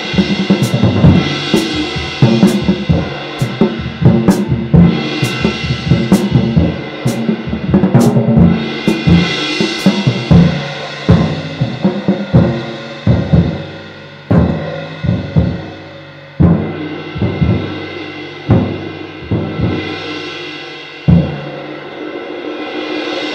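Drum kit groove played on handmade light ride cymbals: sharp stick pings on the cymbal over bass and snare drum hits, with a cymbal wash swelling up every few seconds. Near the end the drums stop and a steady cymbal wash rings on.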